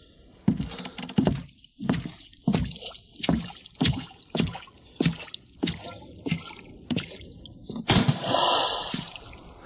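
Water making a regular series of wet drips or splats, about one every two-thirds of a second, followed by a brief hissing splash about eight seconds in.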